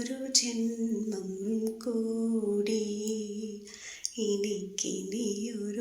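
A solo voice singing a slow Malayalam song with no accompaniment, holding long drawn-out notes.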